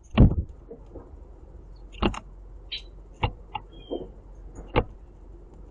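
Blue jay pecking and grabbing seed on a platform feeder: six sharp knocks of its bill and feet on the tray, spaced irregularly, the first the loudest. Faint high chirps and a short thin whistle from birds fall between the knocks.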